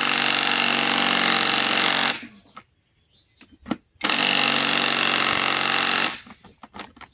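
Bauer compact impact wrench, powered by a Flex 24-volt battery through an adapter, hammering on a big fastener in two bursts of about two seconds each, the second starting about four seconds in.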